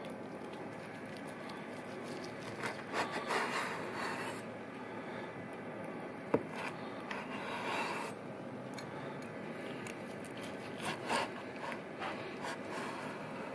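Scraping and rubbing strokes in three short spells over a steady hiss, with one sharp knock about six seconds in.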